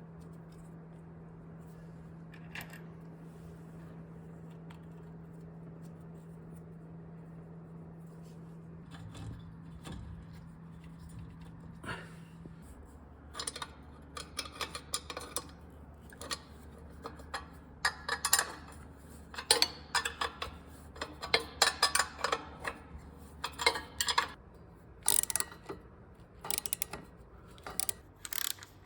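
Metal tools and parts clinking and clicking in irregular bursts during work on a Volvo B20 engine, starting about halfway in and getting busier and louder toward the end. Before that there is only a steady low hum.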